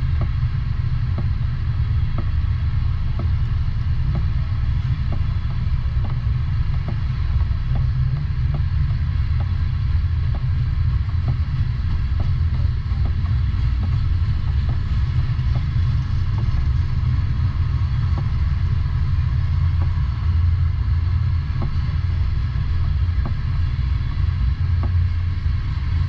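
Freight train of covered hopper cars rolling past: a steady low rumble, with faint regular clicks about once a second as the wheels pass.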